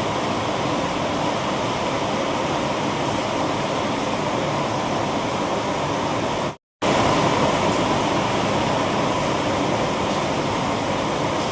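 Heavy rain pouring in a steady, dense hiss. About six and a half seconds in it cuts to silence for a moment, then resumes slightly louder.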